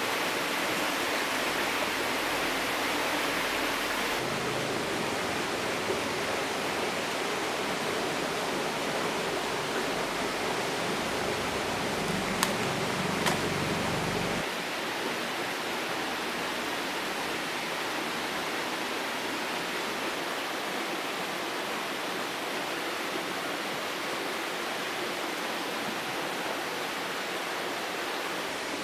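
River water rushing steadily, with two short sharp clicks about halfway through.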